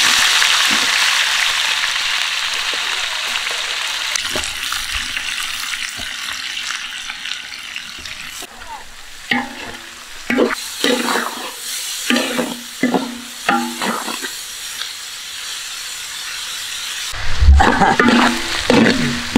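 Chopped onions and ginger frying in hot oil: a loud sizzle that slowly dies down over several seconds. Short bursts of voice come in over the frying later on.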